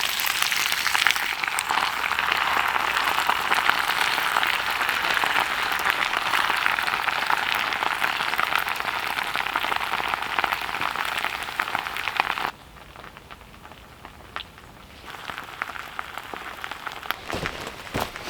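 Steady hiss of heavy rain, which drops abruptly to a much lighter hiss about two-thirds of the way through.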